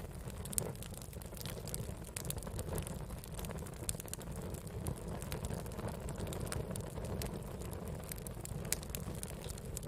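Campfire of burning wood crackling, with irregular sharp pops and snaps over a steady low rumble.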